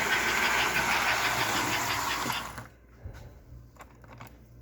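American Flyer 283 S-gauge toy locomotive running hard with a long train of 20 boxcars, its motor and wheels making a loud, fast rattling clatter on the track. The sound cuts off abruptly about two and a half seconds in, followed by a few faint clicks.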